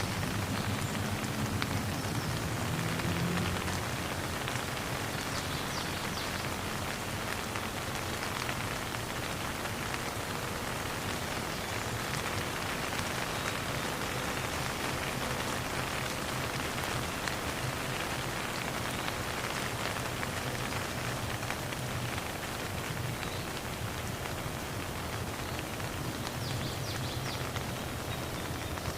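Steady, even rain falling and pattering on surfaces, with no thunder.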